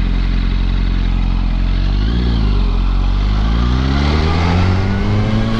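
Yamaha R1 sport bike's inline-four engine running, with a brief rev up and back about two seconds in. From about three seconds in it accelerates, its pitch climbing steadily, then it drops off sharply at the end.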